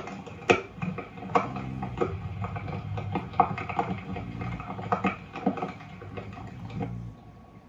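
Recorded rain played back through a loudspeaker: irregular drips and taps, about one or two a second, over a low murmur that fades near the end.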